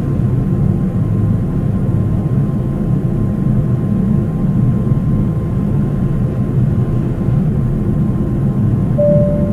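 Steady low roar of a Boeing 777 airliner heard inside the cabin, with a faint steady whine above it. Near the end the first, higher note of the cabin's two-tone chime sounds.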